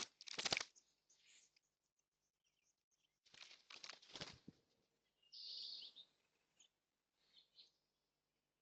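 Faint bird activity: two quick clusters of knocks and scrapes, as from birds landing, pecking or scuffling, then a short, high, hoarse call about five seconds in.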